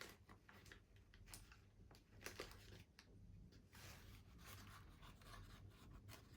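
Faint small clicks and scrapes of tiny metal parts being handled as a screw is turned out of a Märklin HR 800 N model locomotive with a small screwdriver.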